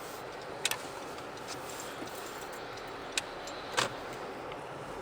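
Steady road noise of a moving car heard from inside the cabin, with a few sharp clicks or rattles, one about a second in and two between three and four seconds in.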